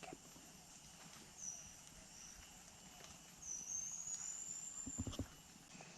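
Faint high chirps from a bird: a few short calls, then one longer, slightly rising whistle about halfway through, with a couple of dull knocks near the end.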